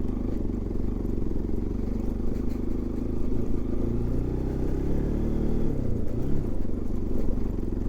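Motorcycle engine running under way in low gear on a rough track. Its pitch rises about four seconds in, then drops and picks up again near six seconds as the throttle is eased and reopened.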